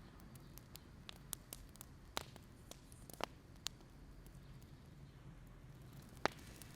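Firewood fire crackling: scattered sharp pops and snaps at irregular intervals over a faint low hum, the loudest pop about six seconds in.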